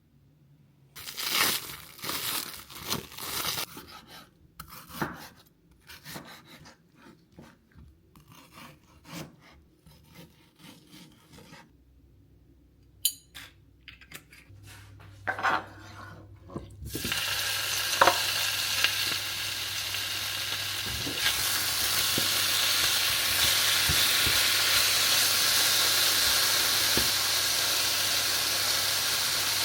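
Clatter and scrapes of kitchen utensils and dishes, then a little past halfway food starts sizzling in a hot pan, a steady sizzle that is the loudest sound here.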